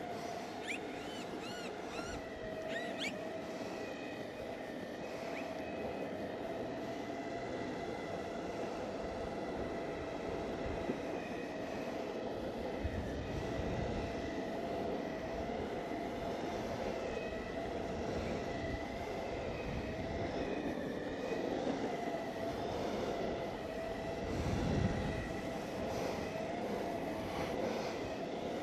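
Exway Flex Pro V3 electric skateboard riding: the electric motors give a steady whine while the wheels roll on the pavement. Short bird chirps come in the first few seconds, and gusts of wind rumble on the microphone twice, the second near the end.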